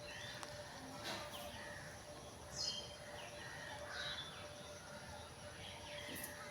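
Birds chirping and calling in short, scattered notes over a steady background hiss, with a couple of faint knocks about a second in.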